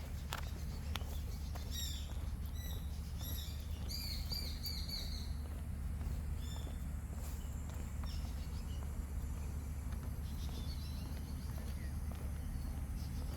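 Birds chirping: a run of short, high, quickly repeated chirps clustered a couple of seconds in, thinning out after a few seconds, over a steady low rumble of background noise.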